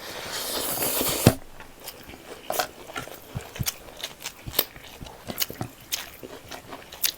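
A person eating pork leg with rice: chewing and biting, heard as a run of short, separate clicks and crunches. A louder hissing swell in the first second or so ends in a sharp knock.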